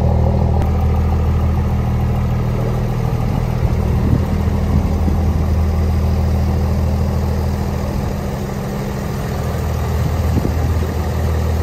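Diesel pickup truck engine idling steadily with a deep, even hum; it eases off slightly for a moment about two-thirds of the way through.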